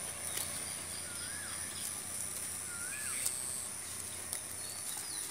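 Outdoor pond-side ambience: a bird repeats a short whistled call that rises and falls, several times, over a steady high-pitched hum. Faint light ticks and rustles come from a cast net being shaken out onto grass.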